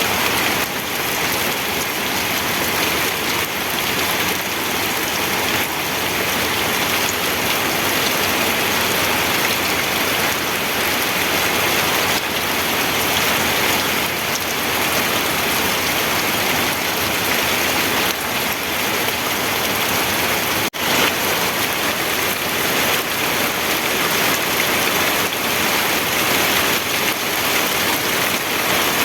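Steady rain falling, a dense, even hiss, with a momentary dip about two-thirds of the way through.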